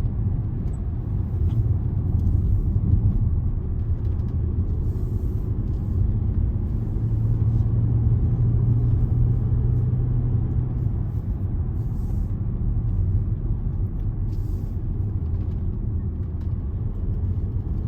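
Car engine and road rumble heard from inside a car driving on a rough, rocky single-track road. The engine note swells and eases, with brief patches of higher hiss from the tyres on the rough surface.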